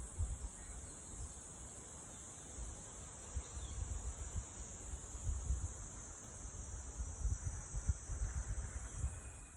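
Insects shrilling in a steady high-pitched drone, over an irregular low rumble.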